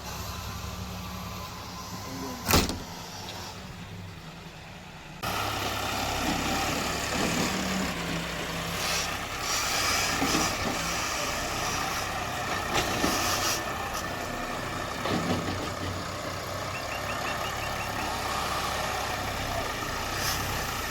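Tractor diesel engine running steadily, with a sharp knock about two and a half seconds in. About five seconds in the sound jumps louder and noisier, the engine still running under scattered knocks and clanks.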